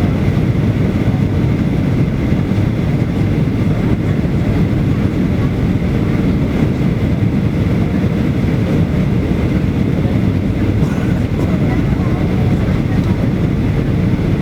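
Steady airliner cabin noise, the engines and airflow heard from inside the cabin as a low, even rush with a faint high hum above it.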